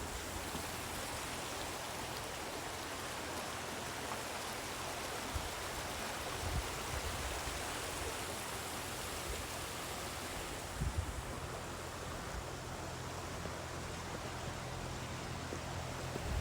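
Steady rushing of a flowing stream, with a few brief low thumps, the clearest about eleven seconds in.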